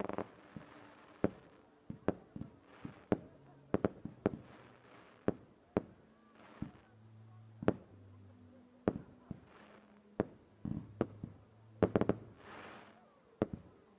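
Fireworks going off: a string of sharp bangs at irregular intervals, some followed by a hissing crackle, with a dense cluster of bangs about twelve seconds in.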